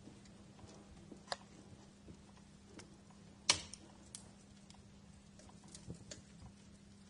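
Wood fire in a fireplace crackling: scattered sharp pops and snaps over a low hiss, the loudest pop about three and a half seconds in.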